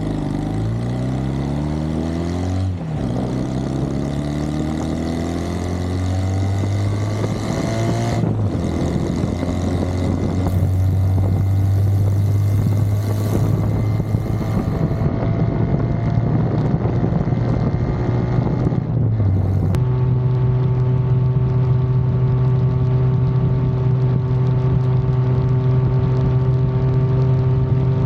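Indian Roadmaster motorcycle's V-twin engine running, its pitch climbing and dropping back twice in the first eight seconds, then holding steady.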